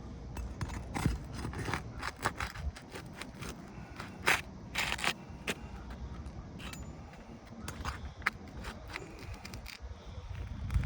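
A pry bar scraping and clicking irregularly against asphalt roof shingles as it is worked under them to break their sealant strips, with a longer scrape about five seconds in.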